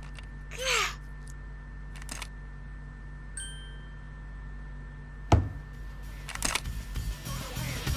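Sound effects over a steady low hum: a short whoosh under a second in, a click, a brief high ding about three and a half seconds in, then a sharp bang just past five seconds, after which rhythmic music starts building.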